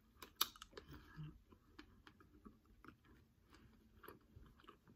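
Faint chewing of a Skittles candy: small clicks and soft mouth smacks, with one sharper click about half a second in.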